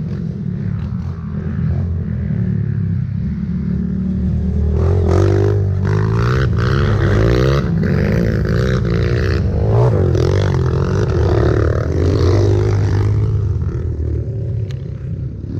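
Trail motorcycle engine running, revved up and down repeatedly through the middle stretch before easing back.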